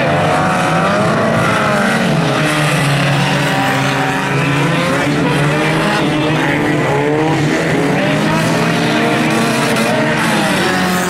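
Several banger racing cars' engines revving hard together, their overlapping notes rising and falling in pitch as the drivers work the throttle.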